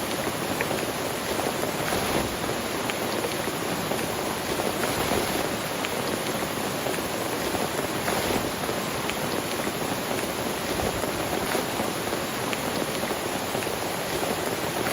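Steady heavy rain falling, with scattered sharper drops ticking now and then.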